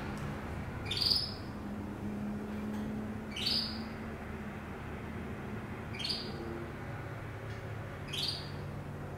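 A bird calling: four short rising chirps, evenly spaced about every two and a half seconds, over a low steady hum.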